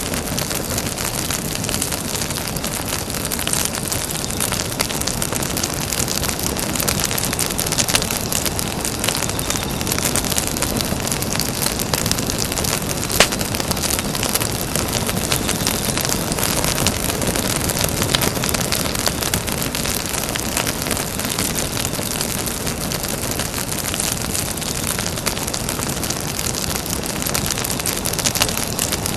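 Campfire burning with a steady hiss and dense crackling, and one louder pop about thirteen seconds in.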